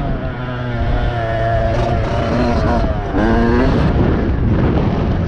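Motocross bike engine running hard, its note rising and falling with the throttle, climbing sharply about three seconds in.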